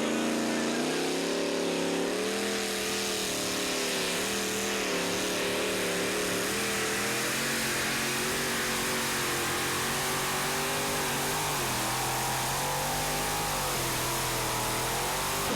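Pulling tractor's engine running hard at full throttle under heavy load as it drags the sled, with a loud, hissing roar over it. Its pitch drops over the first couple of seconds and then sags further, wavering, as the load builds.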